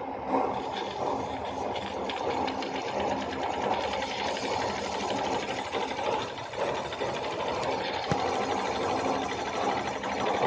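Homemade model steam engine running, a steady, rapid mechanical clatter.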